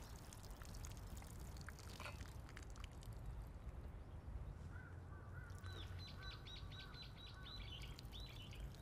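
A bird chirping a quick run of short repeated calls for about two and a half seconds midway, over a faint steady hiss.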